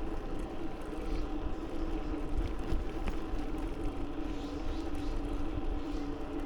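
Wind rushing over the microphone of a camera on a moving bicycle, with tyre noise on pavement and a steady hum.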